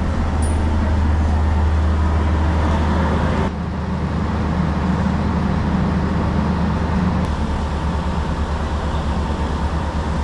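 Running noise of a moving diesel train heard from inside, a steady low drone. It changes abruptly about a third of the way in, and a regular low pulsing sets in later.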